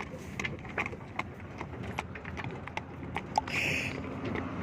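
Hooves of a walking riding or pack animal on a path, an uneven clip-clop of a few footfalls a second. A short hiss comes about three and a half seconds in.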